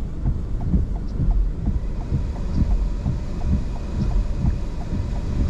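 Strong wind buffeting the microphone in gusty, low rumbling surges, with a faint, regular light ticking about three times a second.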